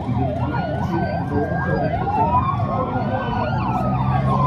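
Several emergency-vehicle sirens sounding at once: a fast yelp repeating about three times a second over slower wails that rise and fall, with vehicle engines running underneath.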